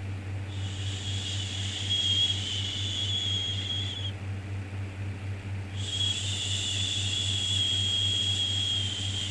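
Long, drawn-out shushing "shhh" sounds for soothing a baby, each held about three and a half seconds: one starts about half a second in, and a second starts about six seconds in after a short gap. A steady low hum runs underneath.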